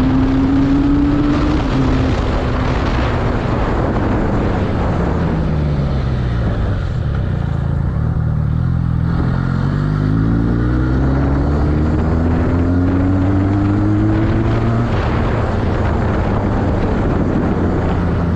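Benelli 302R's inline two-cylinder engine, on its stock exhaust, under way. Its pitch climbs in the first second or two, falls for a few seconds, climbs again through the middle and drops near the end, over a steady rush of noise.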